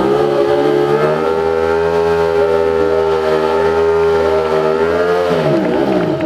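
Ducati stunt motorcycle's V-twin engine held at high revs, climbing briefly and then steady for about five seconds, before the revs drop off near the end.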